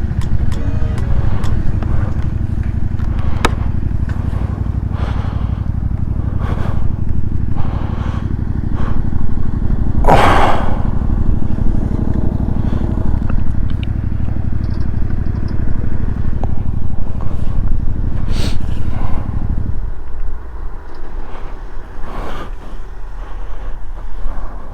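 Motorcycle engine running steadily under way, with a loud rushing noise about ten seconds in. About twenty seconds in the engine sound drops away to a much quieter low hum.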